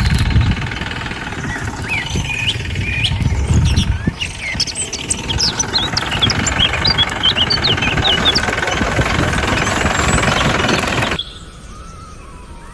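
Birds chirping repeatedly over a loud, steady noisy hum that cuts off abruptly near the end.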